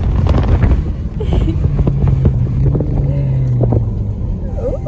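Single-turbo Dodge Charger SRT at full run, heard from inside the cabin with heavy wind and road rumble. The engine holds a steady drone through the middle, which fades out near the end.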